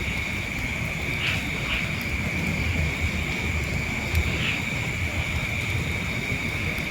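Steady high-pitched insect chorus, typical of crickets, over a rough low rumble of wind or handling noise.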